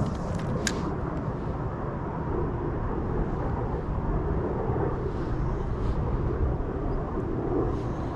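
Steady wind rumble on the microphone, with a single short click less than a second in.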